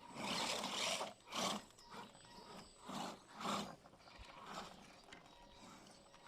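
Hobby-grade RC scale truck driving over rough ground in short bursts of throttle, its tyres and drivetrain running as a rough rushing noise; the longest burst is at the start, with shorter ones about a second and three seconds in.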